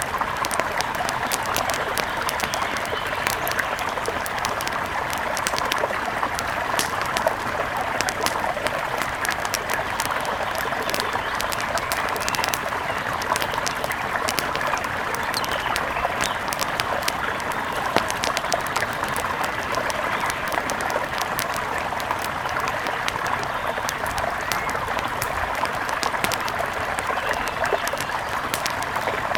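Steady rush of a mountain river, with many small sharp clicks scattered through it.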